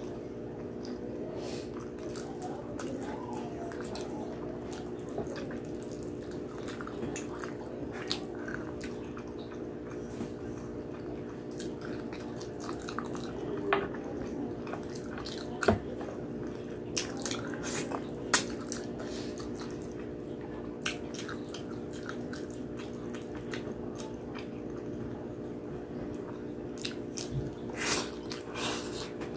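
Close-up wet chewing and biting of braised pork hock skin and fat, with sticky mouth and lip sounds and scattered sharp clicks, the loudest about halfway through and near the end. A steady low hum runs underneath.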